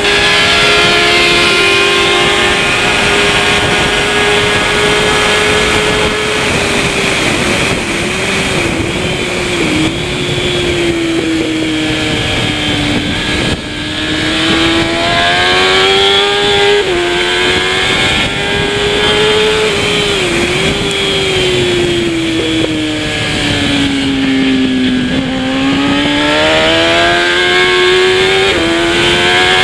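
Kawasaki ZX-10R superbike's inline-four engine running hard at high revs under race conditions, its pitch staying high with several quick dips, then falling slowly for a few seconds about three-quarters through before climbing again. A steady rush of wind noise runs under it.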